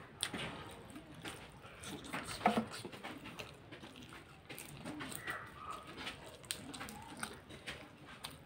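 Close-up chewing and wet mouth sounds of a person eating noodles and leafy greens, with scattered small clicks.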